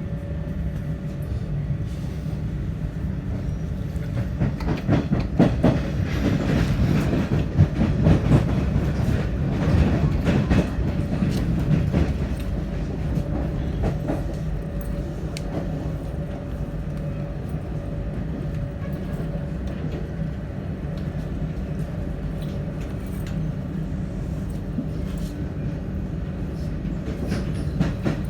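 Melbourne train running on the rails: a steady low rumble with a thin steady hum, and wheels clicking over rail joints, loudest for several seconds in the first half.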